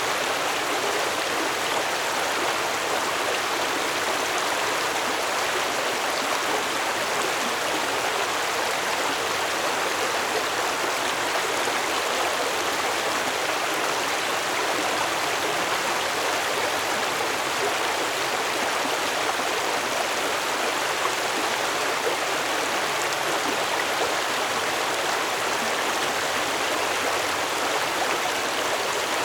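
Water of a stream flowing and splashing in a steady, unbroken rush.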